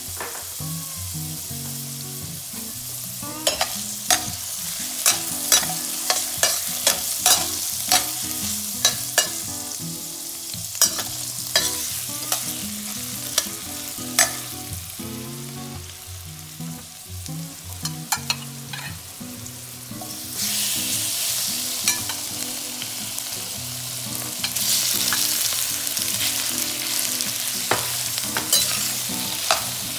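Diced carrots sizzling in hot oil in a stainless steel pan, with a metal spatula stirring and clicking sharply against the pan. The sizzle grows louder about two-thirds of the way through as raw shrimp go into the oil.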